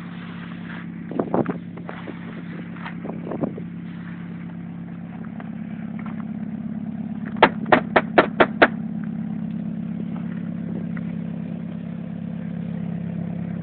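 1990 Honda Accord's four-cylinder engine idling steadily after a cold start. A few scattered knocks come early, then a quick run of six sharp knocks about halfway through.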